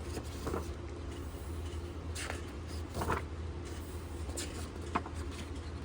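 A steady low hum with a few short rustles and light knocks over it; the knock about three seconds in is the loudest, and there is a sharp click about five seconds in.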